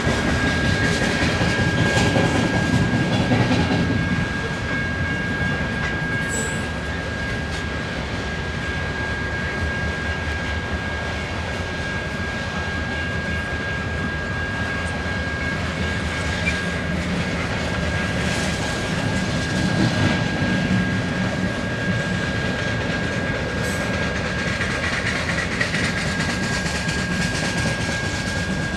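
BNSF freight train of open-top coal cars rolling past: a steady rumble and rattle of wheels on the rails, with occasional faint clicks and a thin, steady high whine underneath.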